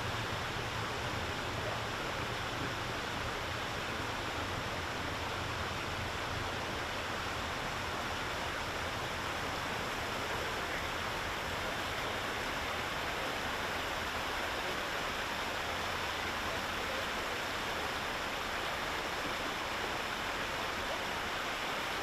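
Water rushing steadily from a sheared fire hydrant, an even, unbroken rush with a low hum underneath for most of it.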